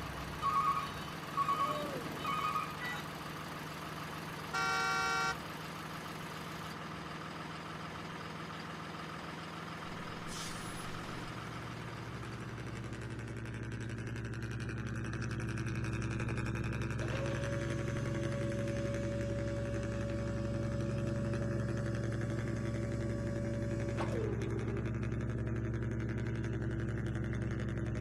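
Remote-control model vehicle sounds: three short beeps near the start, then a brief horn blast. A steady engine drone follows and grows louder about halfway through.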